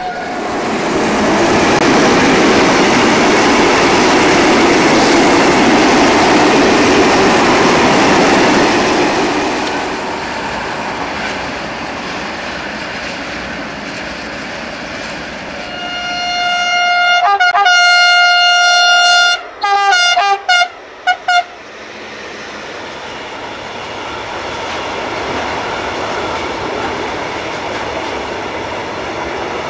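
Freight train wagons rolling past on the rails with a steady rush of wheel noise that eases off after about nine seconds. About halfway through a locomotive horn sounds on one note, one long blast followed by several short toots, and near the end the rolling noise of another freight train builds up.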